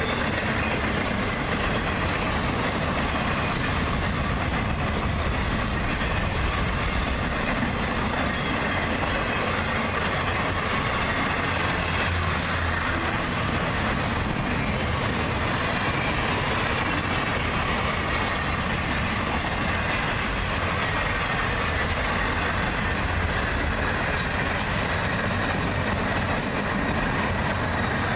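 Freight cars of a long train rolling past at speed, a steady rumble of steel wheels on the rails with faint, high wheel squeal.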